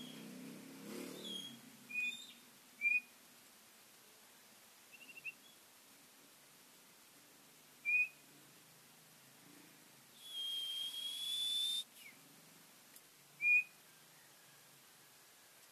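Common iora (cipoh) calling: several short, sharp chirps and a brief trill spaced a few seconds apart, and about two-thirds in one long whistle held for about a second and a half, rising slightly in pitch.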